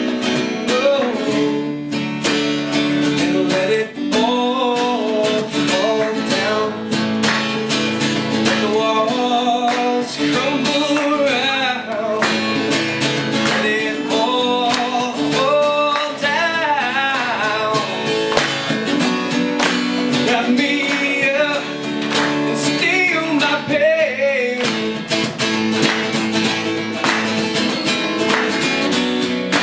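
Acoustic guitar strummed steadily through a song's instrumental passage, with a singing voice gliding over it in places.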